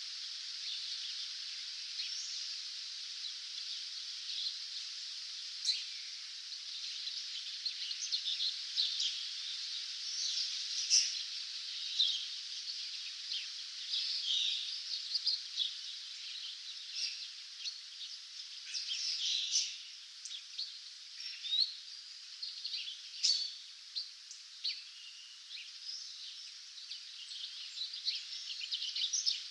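Many songbirds singing in a dawn chorus: overlapping short chirps and trills, a few louder calls standing out, over a steady high hiss.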